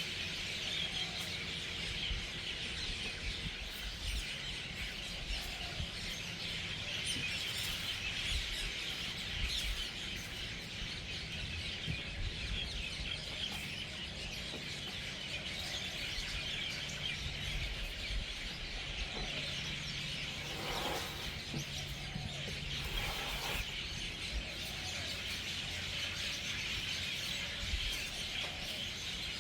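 Dense, continuous chorus of a large flock of birds chirping and chattering as they gather to roost for the night.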